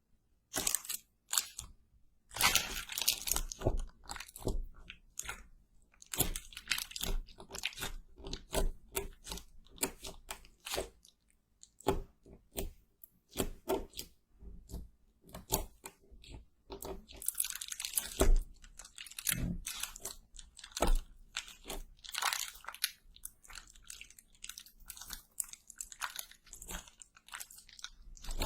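Close-miked ASMR eating: crispy fried food being bitten and chewed, with a rapid, irregular run of crunches and crackles.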